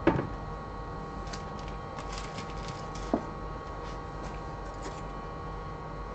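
Steady electrical hum from bench equipment, with a sharp knock at the start, another short knock about three seconds in, and faint small clicks of tools being handled.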